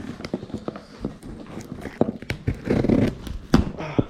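Cardboard packaging being cut and opened by hand: irregular scraping, rustling and knocks.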